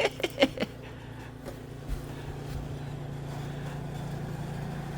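An engine running steadily at one even pitch, with a few quick knocks at the start.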